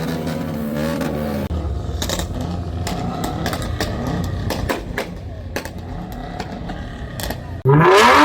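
Car engines running around a crowd, a steady low rumble with scattered clicks. Near the end a much louder sound cuts in, sliding up and down in pitch.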